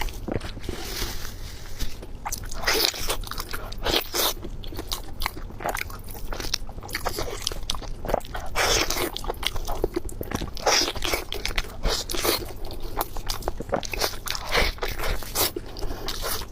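Close-miked biting and chewing of crunchy food: irregular loud crunches, several every couple of seconds.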